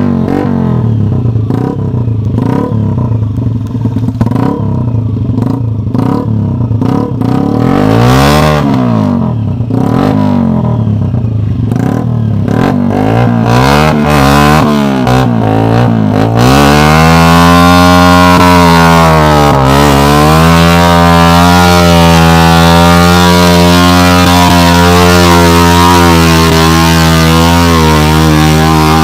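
Dirt bike engine revving up and down again and again as the rear wheel churns in deep mud, then held at high revs and loud from about halfway through as the bike pulls free and drives out.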